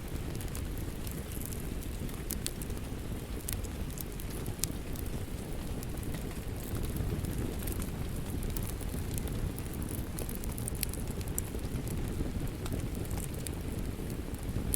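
Wood fire crackling, with many scattered sharp pops, over a steady rush of rain.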